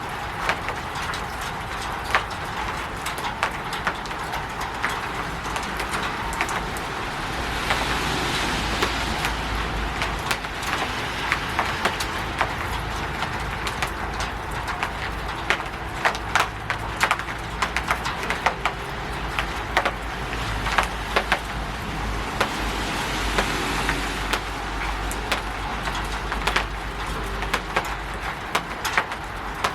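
Rain falling on a roof: a steady hiss of rain with many sharp drip taps, growing heavier about a third of the way in and again later, over a low rumble.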